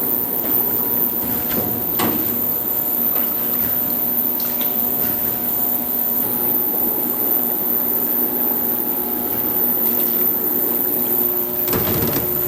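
Factory processing machinery running steadily, a hum with several held tones, broken by a few sharp clicks and a short clatter near the end.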